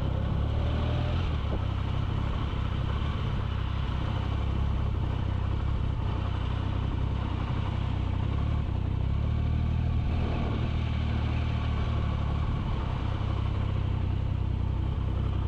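Motorcycle on the move: steady engine running mixed with a constant rush of wind and road noise.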